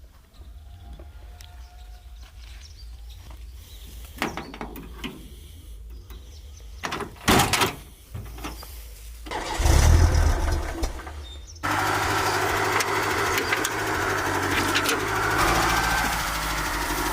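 Scattered clicks and knocks, then a low thud, and from about twelve seconds in a motor vehicle engine running steadily.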